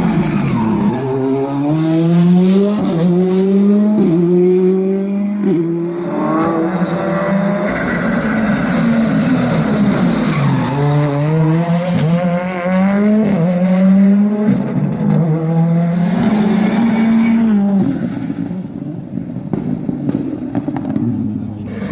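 Ford Fiesta R5 rally car's turbocharged 1.6-litre four-cylinder engine accelerating hard through the gears, its pitch climbing and dropping sharply at each quick upshift about once a second. This happens in two runs, one early on and one in the middle.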